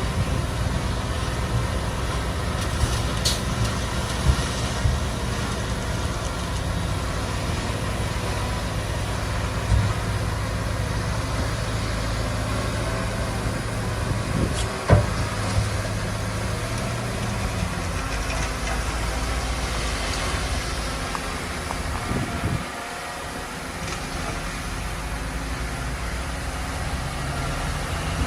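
Diesel engine of heavy earthmoving machinery running steadily, with a few sharp knocks, the loudest about fifteen seconds in. The low engine note drops away briefly a little after twenty seconds, then returns.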